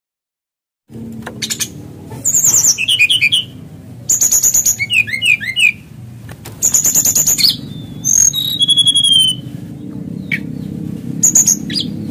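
Male brown-chested jungle flycatcher singing: starting about a second in, repeated bursts of fast, crackling rattles mixed with high whistled notes, including one longer falling whistle, over a steady low hum.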